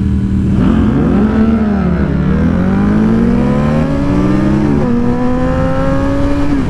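Several sportbike engines idling, then accelerating hard from a stop. Their pitch climbs and drops back with each upshift, then settles into a steady cruise about five seconds in.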